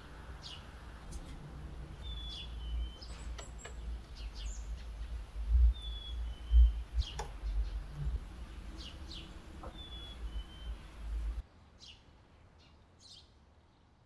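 Small birds chirping: short high chirps and a repeated two-note downward whistle every few seconds. Under them is a low rumble with two dull thumps in the middle, the loudest sounds here; the rumble stops abruptly near the end while the chirping goes on.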